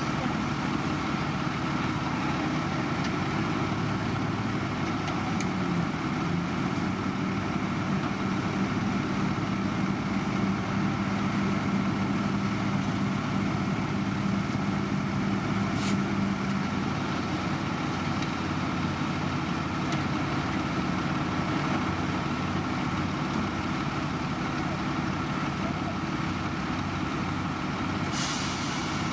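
Heavy diesel road-construction machinery running with a steady engine drone, with a brief high air hiss near the end.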